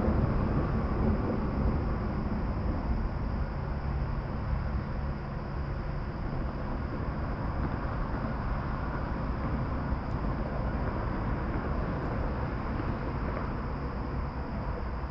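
Steady outdoor rushing noise, heaviest in the low end, with a constant high-pitched insect drone above it.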